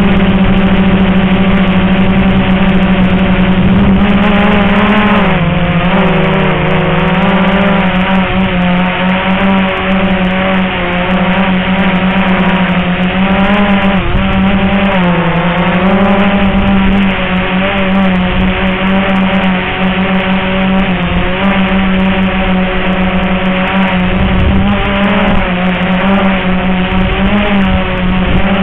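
Quadcopter motors and propellers of a Walkera QR X380 drone humming steadily in flight. The pitch dips briefly and comes back up about five seconds in and again about fifteen seconds in as the motors slow and speed up.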